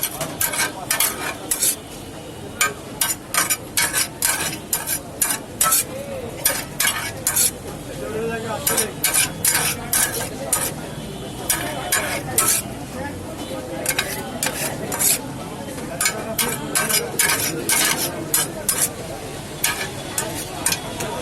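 Pasta frying and sizzling in a pan while it is stirred, with repeated sharp scraping and clinking strokes of a spatula against the pan at an irregular pace of about two or three a second.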